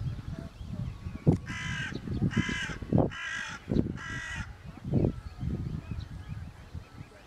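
A bird giving four harsh, cawing calls in quick, even succession, each under half a second long, over a low rumble with a few knocks.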